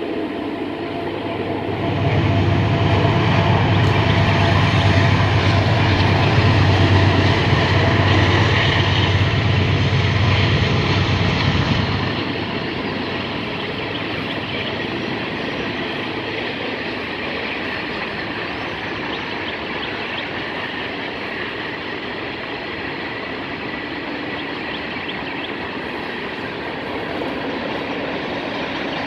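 Train passing close by, loudest with a heavy low rumble for about ten seconds, then a steady rolling sound of the cars on the rails with some clickety-clack.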